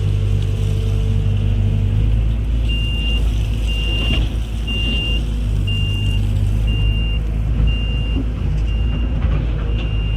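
Heavy diesel engine running steadily at a constant speed. About three seconds in, a high-pitched warning beep starts, repeating about once a second, like a reversing or travel alarm.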